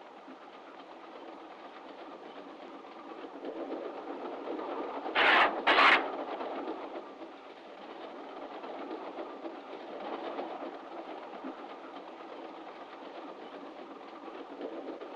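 Railway carriage running, a steady rumble with wheel clatter, on an early sound-film track. About five seconds in come two loud, short knocks half a second apart.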